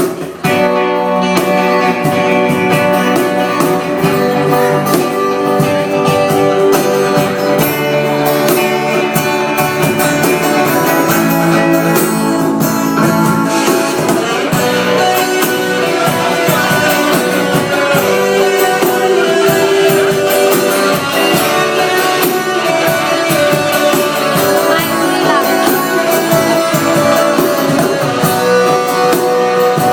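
Guitar-led band music playing steadily, without sung words.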